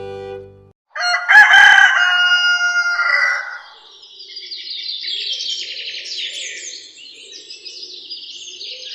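A rooster crows once, starting about a second in and lasting about three seconds. Small birds then chirp in a continuous chorus.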